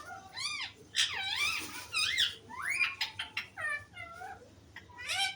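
Pet parrot chattering in a rapid run of short, high, squeaky calls, each sweeping up and down in pitch, several a second.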